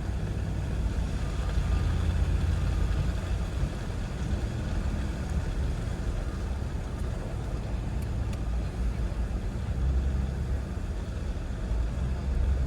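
Steady low rumble of road and engine noise heard from inside a Jeep's cabin while driving.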